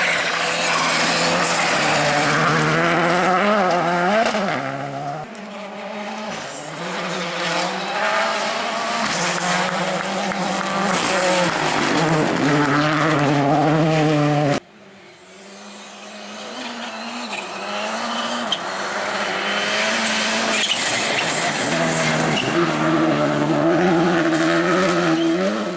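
Rally car engines at full stretch on a gravel special stage, the revs climbing and dropping again and again with gear changes and lifts. About halfway through, the sound cuts abruptly to another car that starts quieter and grows loud as it approaches.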